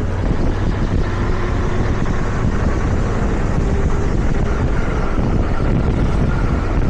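Motorcycle engine running while riding, with wind buffeting the rider's microphone; steady throughout.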